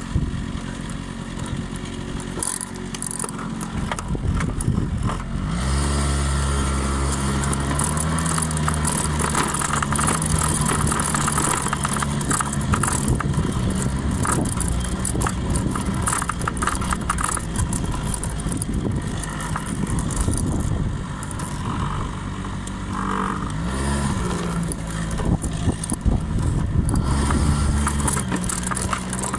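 Honda 50 cc scooter engine running under way, with its pitch climbing as it speeds up about six seconds in and again after twenty-three seconds, holding steady in between.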